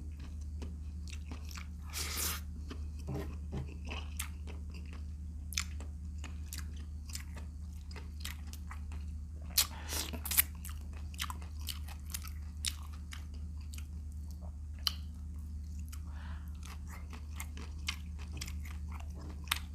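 Close-up mouth sounds of someone eating vinegar-stewed shrimp: chewing, biting and crunching with wet clicks. A steady low hum sits underneath.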